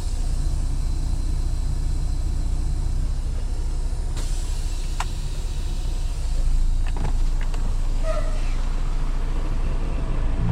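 Semi truck's diesel engine running at low speed with a steady low rumble, with a few sharp clicks in the middle.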